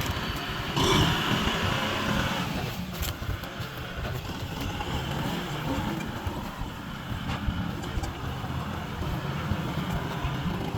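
Kubota M6040 tractor's diesel engine running steadily as the tractor works a field. About a second in it grows louder and harsher for a second or so, then settles back to a steady rumble.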